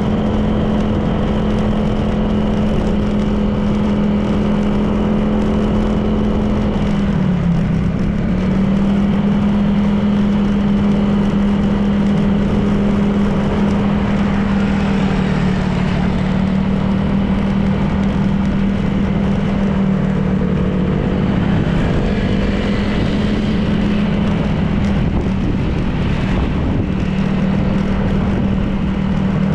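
Honda PCX 160 scooter's single-cylinder engine running at a steady cruise, with wind and road noise over it. Its pitch dips briefly about seven seconds in and comes back up, and dips slightly again about two thirds of the way through.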